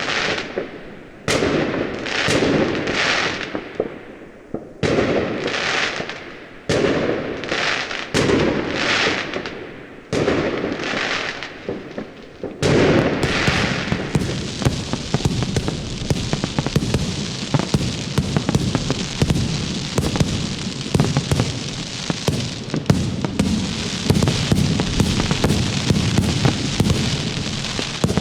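Fireworks and firecrackers going off: separate loud bangs, each with a short crackling tail, about one a second for the first half, then a long dense run of rapid popping like a lit string of firecrackers.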